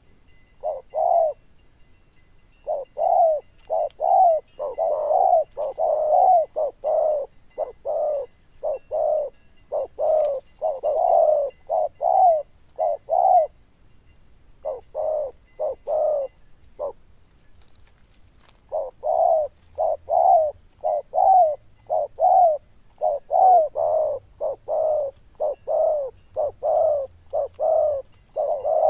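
Spotted dove cooing in quick runs of short, low notes, several a second, with two brief pauses along the way.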